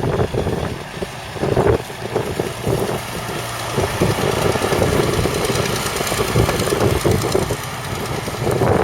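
The 14-litre six-cylinder diesel engine of a 1981 Fiat Versatile 44-28 articulated tractor running, growing louder about four seconds in.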